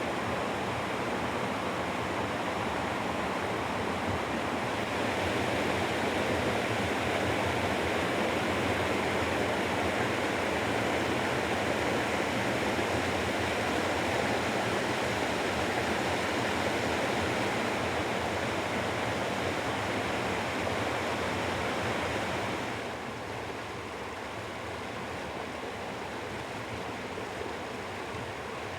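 Mountain stream water rushing over rocks in a steady roar, a little louder about five seconds in and a little softer from about 23 seconds on.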